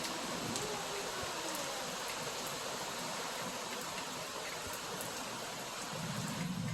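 Heavy rain falling steadily in a thunderstorm. A low rumble comes in during the last second.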